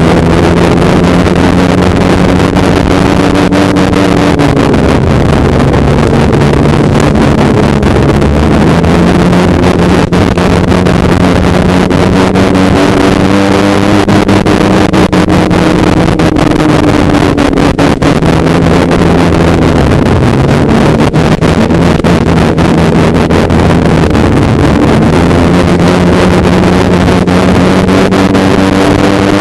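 Polaris snowmobile engine running under way, its pitch easing off and climbing back several times as the throttle changes, with heavy wind rushing over the microphone.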